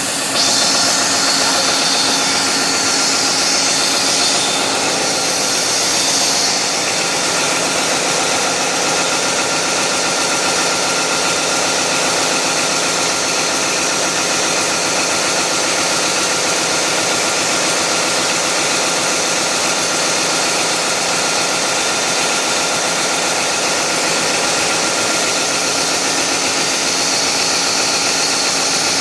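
Large diesel engine running at a steady speed, a dense steady din with a constant hum and whine. A hiss in the upper range eases off about six seconds in.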